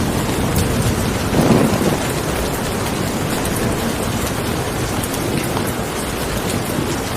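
Steady rain falling, with scattered drop ticks and a short rumble of thunder swelling about a second and a half in.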